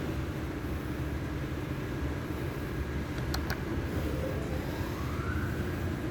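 A vehicle engine running steadily with a low rumble. A whine rises in pitch over about a second near the end, and a few sharp clicks come a little after the middle.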